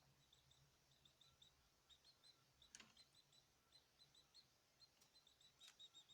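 Caged birds chirping faintly: a quick, uneven series of short high chirps, with a brief click about three seconds in and another near the end.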